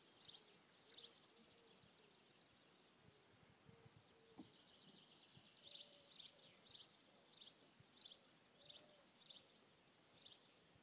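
Faint birdsong: one bird repeating a short, high, down-sweeping chirp, a couple of times near the start and then about eight times in a steady run from about halfway, over a quiet background hiss.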